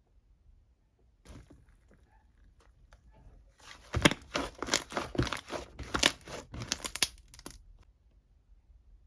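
Close-up crinkling and crackling handling noise, a dense run of sharp crackles lasting about four seconds, starting about three and a half seconds in after a few faint clicks.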